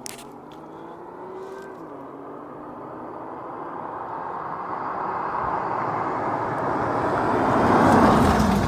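2016 BMW M3's twin-turbo straight-six accelerating. The engine note rises until a gear shift about two seconds in, then grows steadily louder as the car comes closer, loudest near the end before it starts to fall away.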